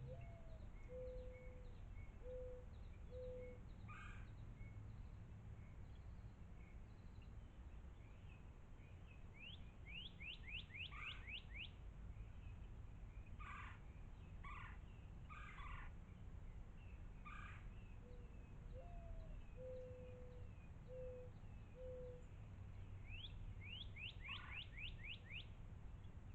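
Faint outdoor birdsong. A low call of one rising note followed by three level hoots comes twice, near the start and again past the middle. Between them are fast runs of short rising chirps and several other songbird calls.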